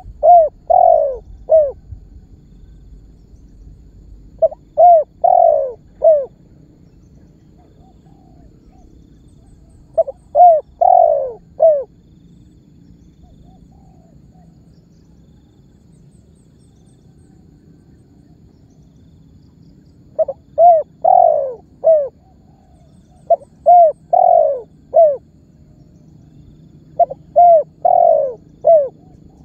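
Spotted dove (tekukur) cooing: six short phrases of three or four coos each, the middle coo in each phrase longer and louder, with a long pause midway.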